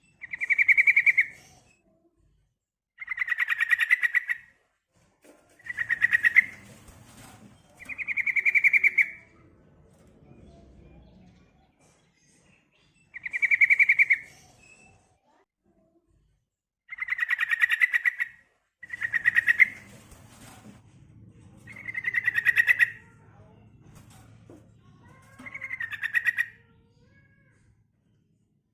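Sooty-headed bulbul (trucukan) calling: nine short, buzzy, rapidly pulsing calls, each about a second long, repeated every two to three seconds. It is a female's call, of the kind keepers play to stir males into answering.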